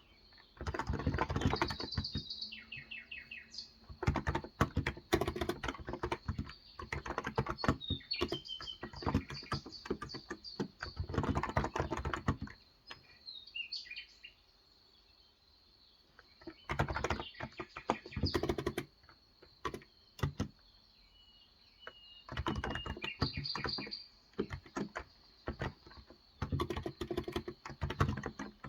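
Typing on a Cox Endeavour electrostatic-capacitive tenkeyless keyboard with 35 g switches. The key clicks come in fast runs of a second or two, broken by pauses of a few seconds. Birds chirp in the background, and one short call falls in pitch a little past the middle.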